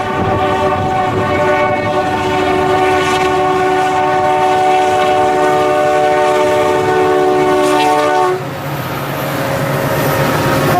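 The horn of a CN freight train's lead EMD SD75i locomotive sounds one long, steady chord of several notes, cutting off suddenly about eight seconds in. That leaves the rumble of the locomotives and the train rolling by.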